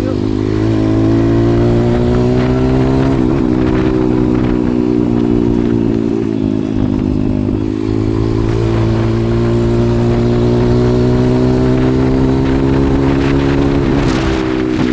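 140cc pit bike's single-cylinder four-stroke engine running steadily under way, its pitch dipping briefly about three seconds in and again near the end.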